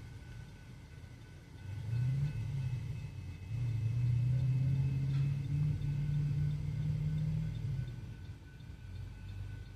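A car engine accelerating as the vehicle pulls away, rising in pitch about two seconds in, holding loudest for several seconds with a step up in pitch, then fading near the end. A railroad crossing's electronic bell dings faintly and evenly underneath.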